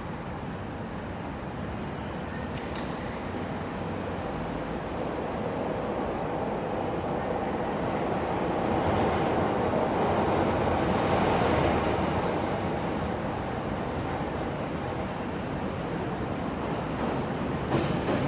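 CTA 'L' train running over the elevated Loop tracks through the interlocking. The rumble builds to a peak around the middle and then eases, with a few clacks near the end.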